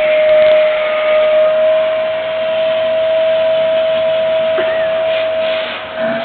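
Dyson vacuum cleaner running, a steady high whine over rushing air.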